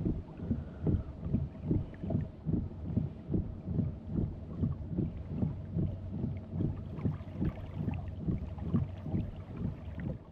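Fishing boat under way, its hull slapping rhythmically on small waves about two and a half times a second, over a steady motor hum.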